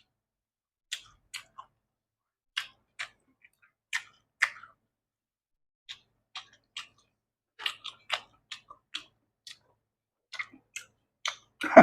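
Close-up mouth sounds of a person eating: short wet chewing clicks and lip smacks, coming irregularly at roughly two a second.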